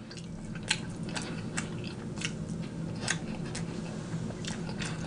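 Close-up chewing with sharp wet mouth clicks at irregular intervals, several a second.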